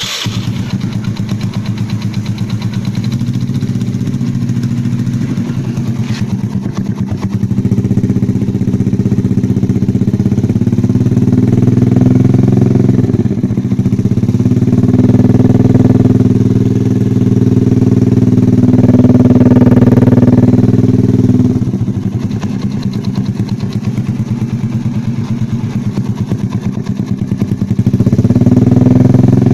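Yamaha Jupiter Z four-stroke single-cylinder motorcycle engine running through an RCB aftermarket racing exhaust, coming to life at the start, idling and then revved in several swells, with the revs held up again near the end.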